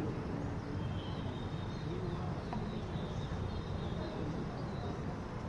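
Open-air ambience: a steady low rumble, with small birds chirping high and short throughout and faint distant voices.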